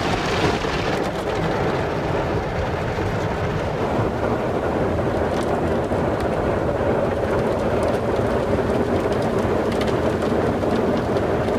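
Soft Gloss XS automatic car wash working over the car, heard from inside the cabin: water spray and wash brushes beating on the body and glass in a steady, rain-like rush that grows a little fuller about halfway through.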